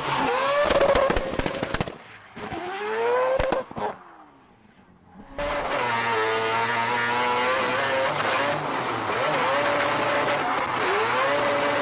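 Mazda RX-7 FD drift car's four-rotor 26B rotary engine revving hard, with rapid crackling backfire pops through the first two seconds. Off the throttle it falls nearly quiet around four to five seconds in, then runs high on the throttle, its pitch rising and falling, for the rest.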